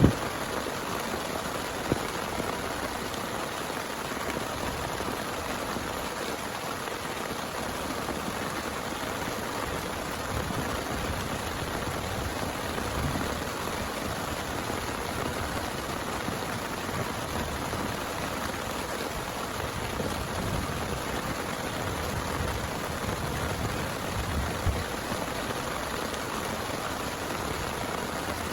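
Heavy rain pouring steadily, an even hiss with no break, with a couple of brief taps about two seconds in and near the end.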